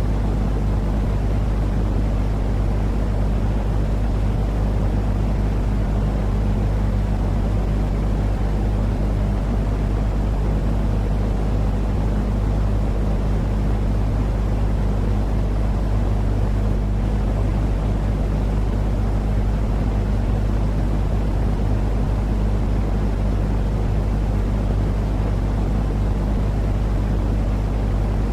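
Steady, unchanging low rumbling noise with a constant low hum beneath it: a continuous sleep-noise track meant to soothe crying and colicky babies.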